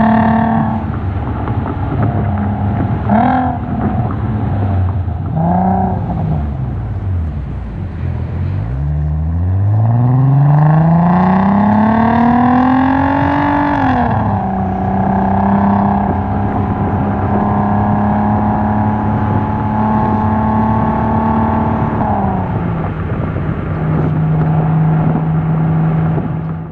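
Volkswagen MKV R32's 3.2-litre VR6 exhaust, run through a modified exhaust with a Magnaflow muffler, heard while driving: two quick rev blips, then the engine pulls from low revs with a steadily rising note for about five seconds, drops sharply at a gear change about halfway, and settles into a steady cruising drone that steps slightly lower near the end.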